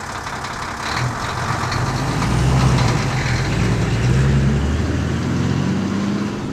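Mini tractor's engine running: a steady low drone that grows louder about a second in and wavers slightly in pitch.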